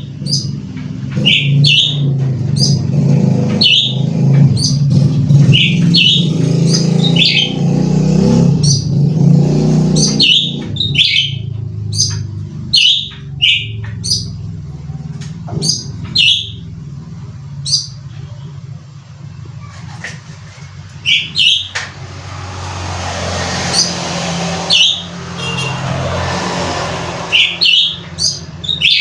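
Cucak ranting bird calling agitatedly in short, sharp, repeated chirps, with gaps between runs. A low rumble like a motor vehicle runs under the calls for the first third, and a swelling whoosh of noise comes near the end.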